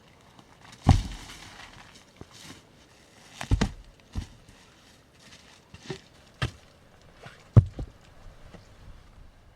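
A handful of heavy knocks at uneven intervals, with lighter rustling and handling noise between them.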